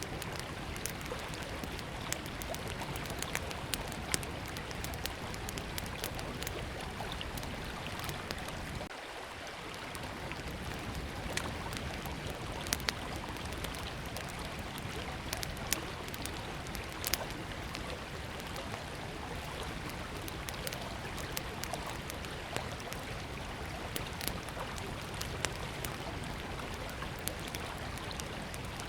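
Small wood campfire crackling with irregular sharp pops, a few louder than the rest, over the steady rush of a river.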